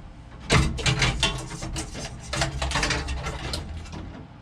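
Irregular metal knocks and clunks as an air shifter is set into its mounting in the car and fitted into place by hand.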